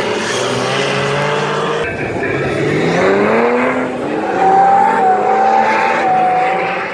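Car engine revving hard under acceleration, its pitch climbing and then holding high, over tyre noise. The sound cuts off abruptly at the end.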